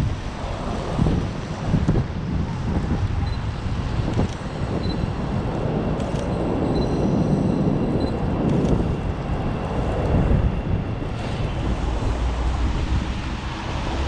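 Strong blizzard wind buffeting the microphone in gusts, with city street traffic running underneath.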